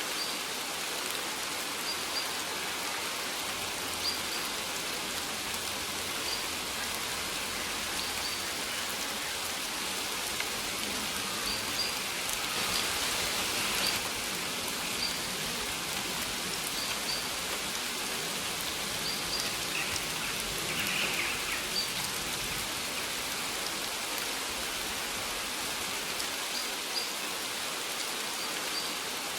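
Steady rain falling, an even hiss of drops, with short high chirps recurring every second or two.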